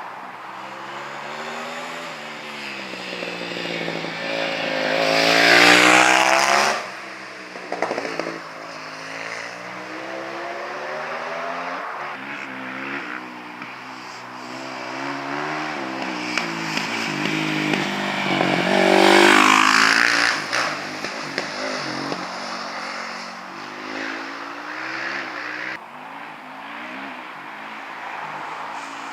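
Racing motorcycles run hard up a hillclimb, engines revving and shifting, rising and falling in pitch. The bikes are loudest about six seconds in and again about twenty seconds in, each time dropping off sharply.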